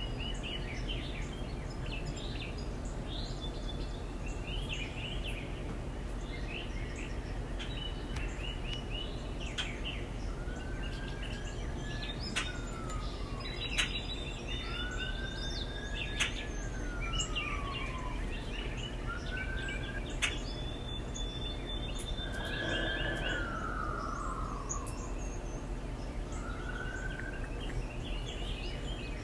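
Backyard birds chirping and calling throughout, with about six slurred whistles that rise and then fall, over a steady low background hum. A few sharp clicks come through in the middle.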